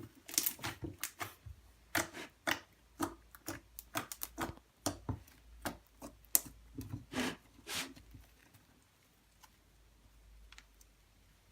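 Clear slime made with baking soda being squeezed and worked by hand, giving a quick run of sharp clicks and pops that thins out to a few faint ticks after about eight seconds.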